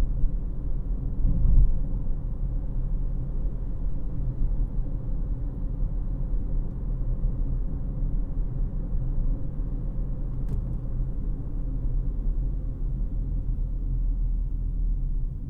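Cabin of a 2018 Honda CR-V LX on the move: a steady low rumble of road noise and engine.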